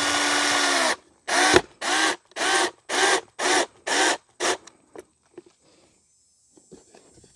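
Power drill driving a 1.5-inch screw into a cork sleeve: a continuous run that stops about a second in, then seven short trigger pulses about half a second apart as the screw is seated, followed by a few faint clicks.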